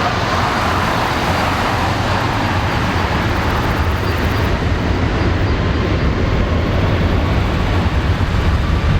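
Airbus A330-343X's Rolls-Royce Trent 700 turbofans at takeoff power, a loud steady roar with a deep rumble that builds toward the end as the jet begins its takeoff run.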